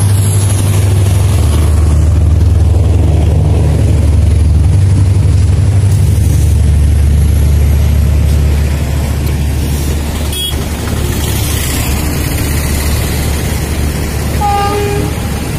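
Diesel-hauled passenger train rolling past, a loud steady low rumble that eases a little about two-thirds of the way through. A brief horn toot sounds near the end.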